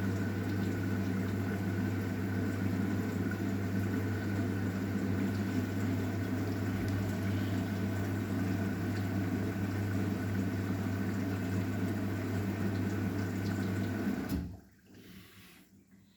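Arçelik 9120M washing machine taking in water: a steady hum with water rushing in, cutting off suddenly about fourteen seconds in.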